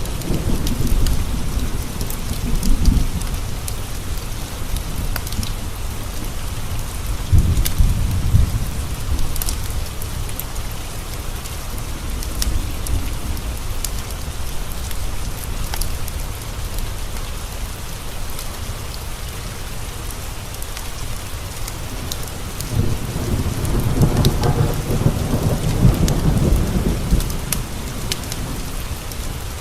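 Steady rain on a window with thunder rumbling low twice, about a quarter of the way in and again near the end, and scattered sharp pops of a crackling wood fire.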